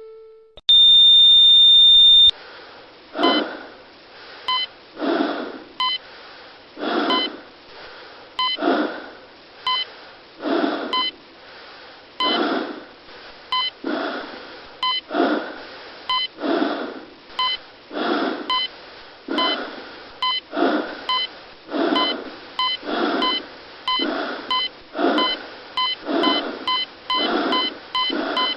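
A loud, high electronic beep lasting about a second and a half, followed by a steady rhythm of hissy pulses about once a second, with short electronic beeps between them.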